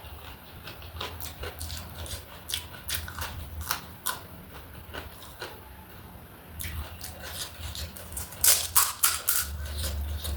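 Close-miked eating: irregular crunching and wet mouth clicks while chewing, with a louder flurry of crunches near the end, over a steady low hum.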